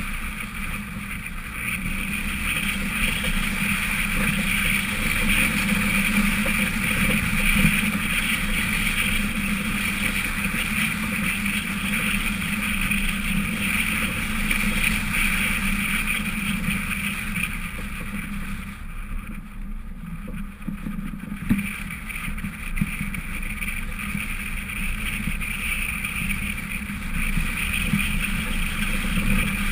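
A 1999 Honda CR-V's four-cylinder engine running steadily while the vehicle is driven, with road and tyre noise. It drops off for a couple of seconds about twenty seconds in, then picks back up.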